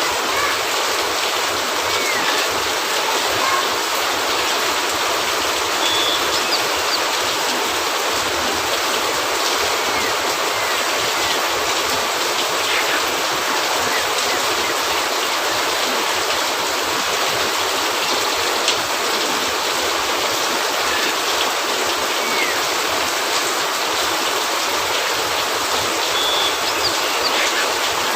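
Steady heavy rain, an even hiss with no let-up, with a few faint scattered clicks and one sharper tick about two-thirds of the way through.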